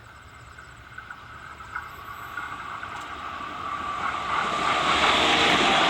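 AC/DC electric train approaching on the line, its running noise growing steadily louder for about five seconds and then holding at full level as it draws near.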